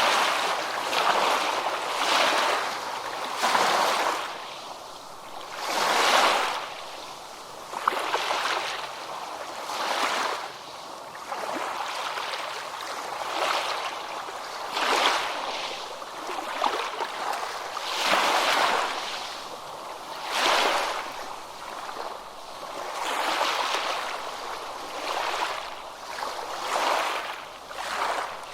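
Ocean surf breaking on a beach: a hissing wash of water that swells and falls back, with a fresh surge every two to three seconds.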